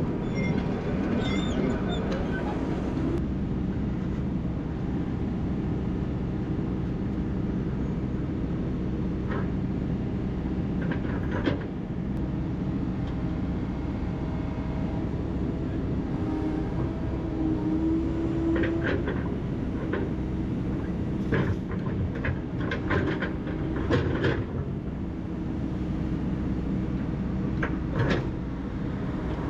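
Hydraulic excavator's diesel engine running steadily under work, with scattered sharp clanks and knocks, most of them in the second half, as the machine handles boulders.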